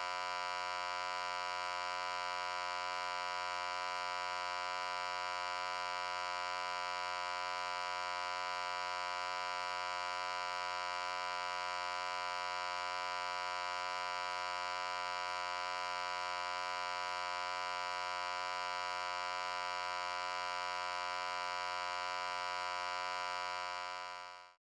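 A steady, unchanging electronic hum, buzzy with many overtones, fading out in the last second.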